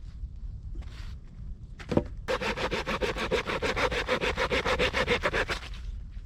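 A single knock, then a rapid, evenly spaced rasping of about ten strokes a second that lasts some three seconds and stops abruptly.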